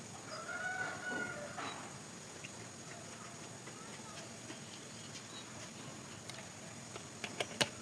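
A single short animal call with a clear pitch lasting about a second, near the start, over low background noise. A few sharp clicks follow near the end.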